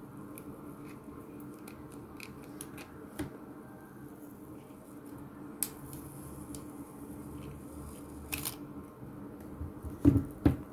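Light scattered clicks and taps of small smartphone parts being handled while the phone is reassembled, with two louder knocks near the end.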